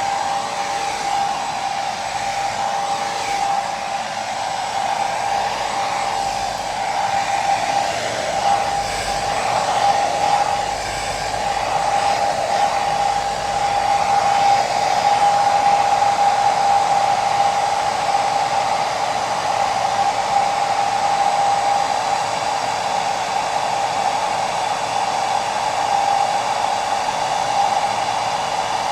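Hair dryer running steadily: an even blowing hiss with a constant mid-pitched whine from its motor, swelling slightly in loudness partway through.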